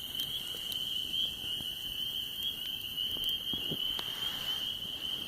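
Steady high-pitched insect chorus holding one pitch, with a few faint pops and crackles from a wood campfire.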